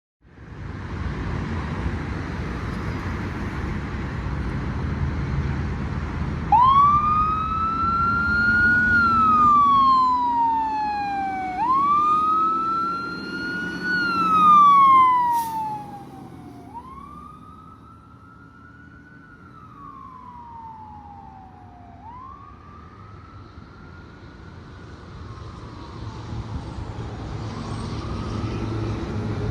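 Fire engine pulling out on a call, its engine running heavily and its siren wailing: each cycle rises quickly, then falls slowly, repeating about every five seconds. About halfway through, the siren and engine grow fainter as the truck moves away.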